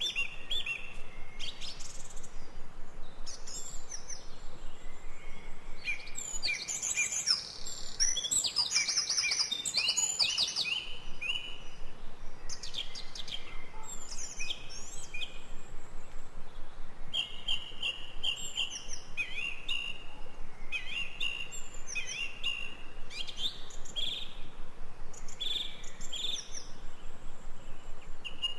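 Several birds chirping and calling, short repeated notes and trills overlapping, busiest about a quarter of the way in, over a faint steady background hiss.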